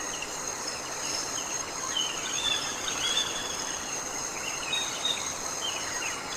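Rainforest ambience: a steady high-pitched drone of insects with several held tones, with short chirping calls scattered through it over a soft background hiss.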